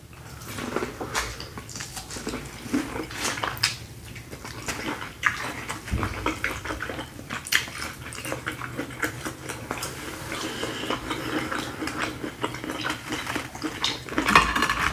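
Wet chewing and eating noises of two people biting into sauce-covered shrimp and corn on the cob, a steady run of small clicks and smacks, with the occasional clink of fingers and food against glass bowls.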